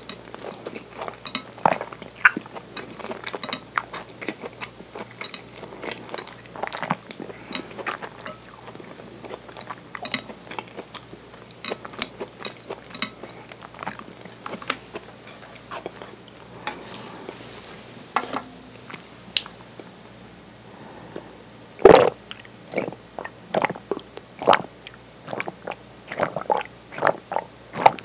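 Close-miked chewing of the last scraps of okonomiyaki: many small crunchy, sticky mouth clicks. The clicks thin out near the end into a few louder, separate mouth sounds.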